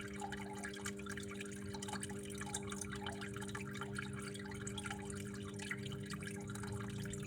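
Water trickling and dripping continuously, with many small irregular drips, over a steady low hum.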